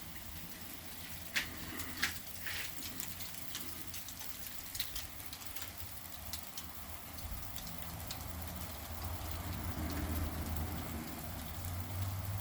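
Sleet falling, a steady hiss with scattered sharp ticks of pellets striking hard surfaces, the loudest ones between one and three seconds in. A low rumble builds through the second half.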